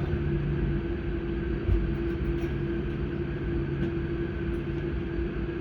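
Steady hum and low rumble inside an AM class electric multiple unit standing at a station platform, its onboard equipment running.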